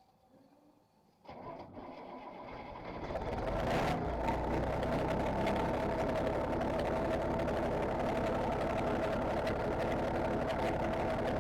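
Straight-piped Detroit Diesel engine of a ramp truck, with no muffler, coming to life about a second in. It builds over a couple of seconds, then runs steadily and loud with a rapid, even pulsing exhaust note.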